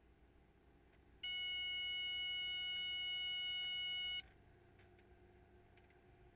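A single steady electronic beep, one unchanging pitched tone held for about three seconds, switching on and off abruptly.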